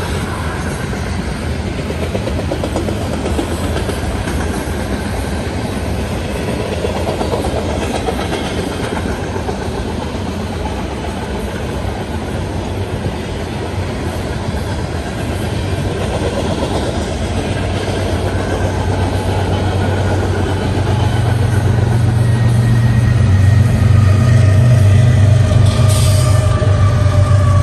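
Covered hopper cars of a grain train rolling past with a steady rumble of wheels on rail. From about twenty seconds in, a rear BNSF diesel locomotive's low engine drone grows louder, and as it passes near the end its tones drop in pitch.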